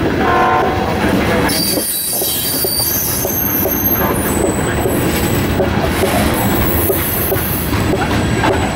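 Covered hopper cars of a freight grain train rolling past, wheels rumbling on the rails. High-pitched wheel squeal sets in about a second and a half in and keeps going.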